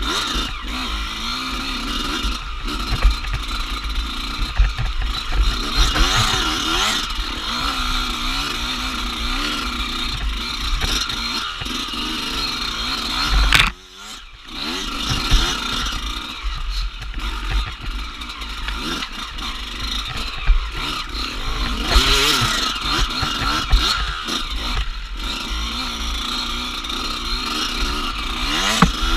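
Dirt bike engine revving up and down as it is ridden off-road, with scattered knocks and clatter. Near the middle the engine sound drops out suddenly for about half a second, then comes back.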